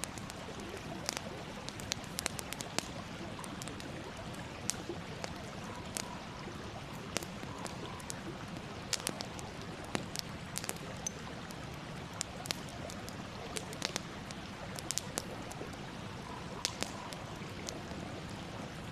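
Campfire burning: a steady soft hiss with irregular sharp crackles and pops, several a second.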